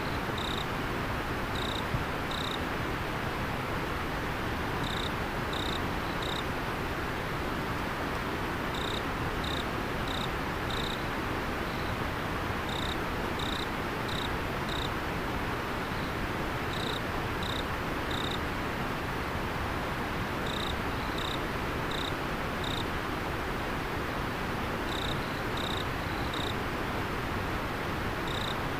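River water flowing steadily, with an insect chirping over it in short high-pitched groups of three or four notes every few seconds.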